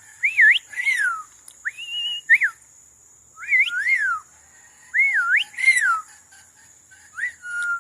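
Amazon parrot whistling: about five short phrases of clear notes that swoop up and down, with short pauses between them.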